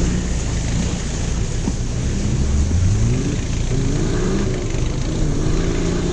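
Off-road vehicle engine running and revving, its pitch rising about two and a half seconds in and then settling.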